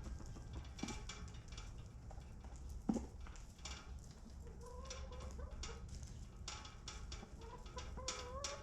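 Domestic hens calling and clucking: a short, loud rising call about three seconds in, then drawn-out, wavering calls through the second half, with scattered light clicks and a steady low rumble underneath.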